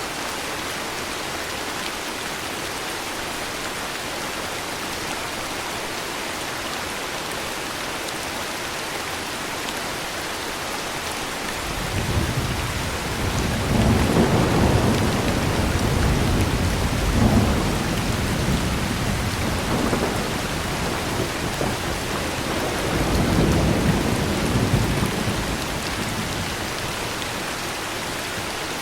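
Steady heavy rain with a long rolling thunder rumble that builds about halfway through, swells a few times and fades out near the end.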